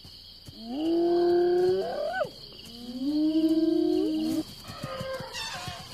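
Young elephant calf's drawn-out distress calls as predators attack it: two loud, long cries, each held on one pitch and then rising sharply at the end, followed by a fainter one near the end.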